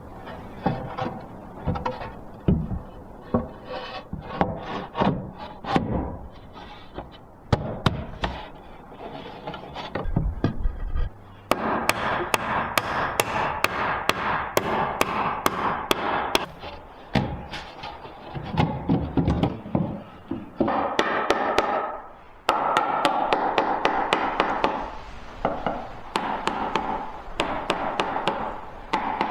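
A run of sharp knocks and taps at an uneven pace. From about eleven seconds in, longer stretches of steady rasping or scraping noise join them.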